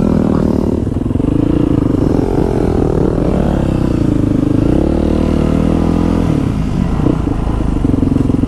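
Motorcycle engines running close by, their pitch wavering up and down with the throttle in the middle, dropping lower about five seconds in.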